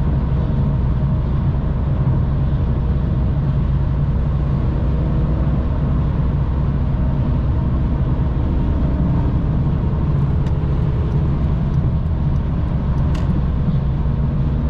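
Car driving at a steady speed: a continuous low engine drone with road noise, with no revving. Faint, evenly spaced ticks come in about ten seconds in.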